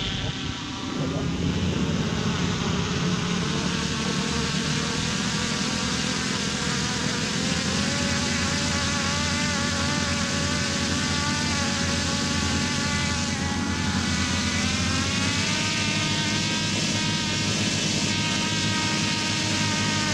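Model jet turbine engines on a large-scale RC airliner running with a steady whine. The pitch creeps upward a little several times.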